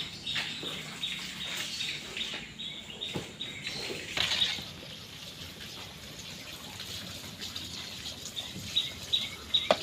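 Water sloshing and splashing unevenly as cassava peels are washed by hand, with scattered small knocks.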